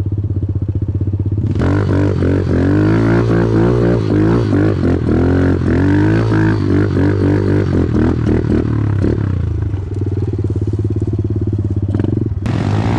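Off-road vehicle engine revving up and down repeatedly for several seconds, then settling to a steadier note, over the constant low hum of another idling engine.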